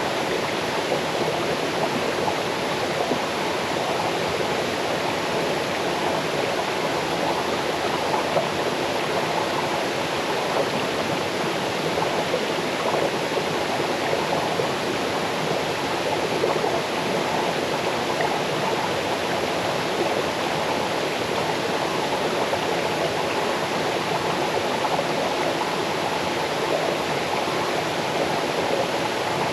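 Small waterfall cascading over rocks into a stream: a steady rush and babble of falling and flowing water, even in level throughout.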